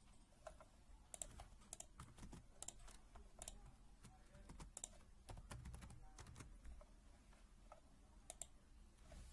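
Faint typing on a Happy Hacking Keyboard (HHKB): quick, uneven runs of keystrokes with short pauses between them.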